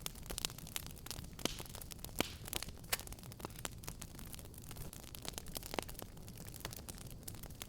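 Wood fire crackling: irregular sharp pops and snaps, a few louder than the rest, over a low steady rumble of burning.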